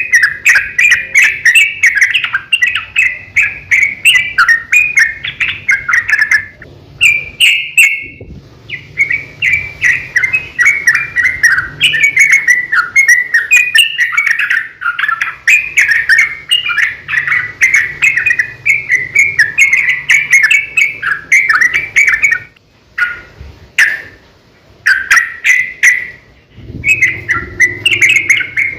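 Yellow-vented bulbuls singing a long, rapid, unbroken run of chattering notes, breaking off briefly about seven seconds in and again for a couple of seconds past the twenty-second mark.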